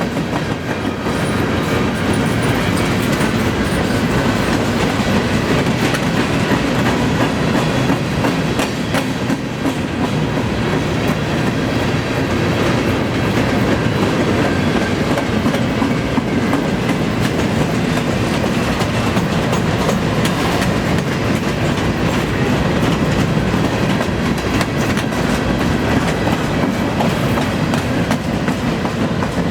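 Freight cars of a long CN freight train rolling past slowly, at about 16 mph, with a steady rumble and the clatter of wheels over the rail.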